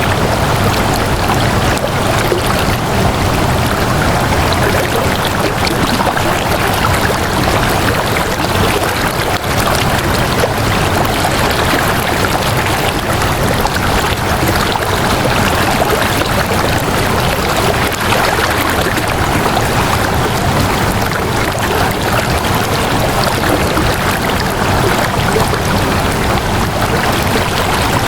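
Flowing water rushing steadily, an even unbroken wash of sound like a stream.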